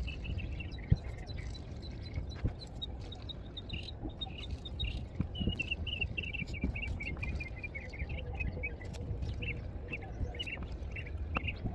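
Small birds chirping, a busy run of short high notes through the middle and later part, over a low steady outdoor rumble. A single sharp tap about a second in.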